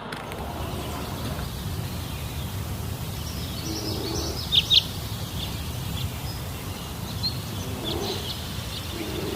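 Outdoor hillside ambience: a steady low rumble with a few short bird chirps, about four and a half seconds in and again near eight seconds.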